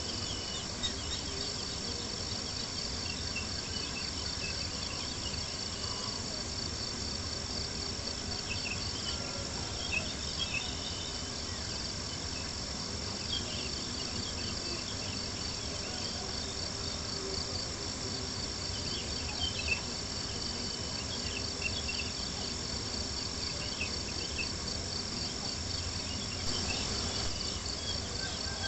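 Crickets chirping in a steady high pulsing chorus, with a campfire crackling in scattered small pops over a soft low rumble.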